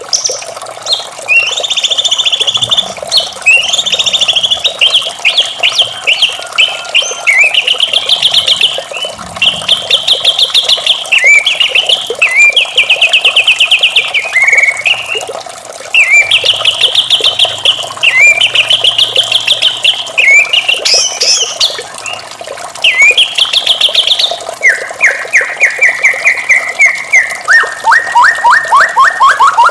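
White-rumped shama singing: a run of fast trilled and rattling phrases, each a second or two long, repeated with short gaps, dropping to lower-pitched trills near the end. A steady rush of running water sits underneath.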